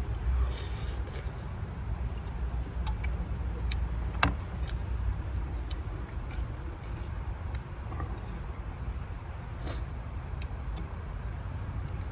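Eating utensil clinking lightly against a bowl a few times at irregular moments, over a steady low rumble.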